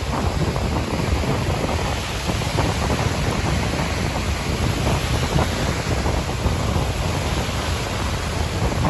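Strong wind buffeting the microphone, a rough, steady rumble, with surf on the beach beneath it.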